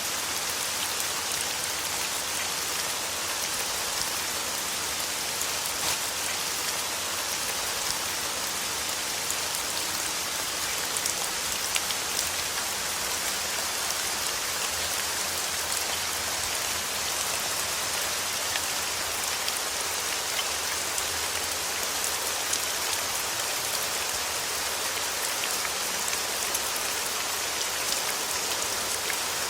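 Steady rain falling: an unbroken hiss with many small drop ticks scattered through it.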